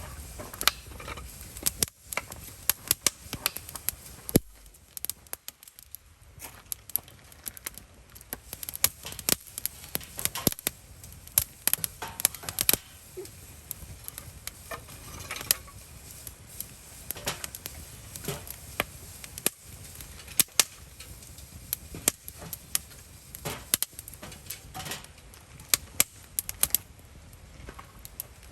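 Wood campfire crackling, with irregular sharp pops and snaps throughout.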